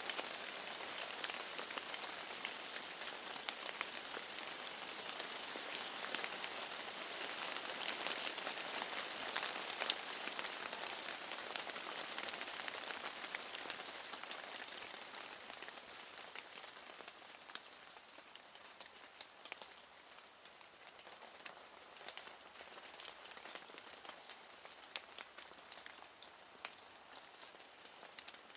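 Steady rain falling, with dense pattering and individual drops tapping against a window. The rain eases off about halfway through, becoming quieter with more separate drop ticks.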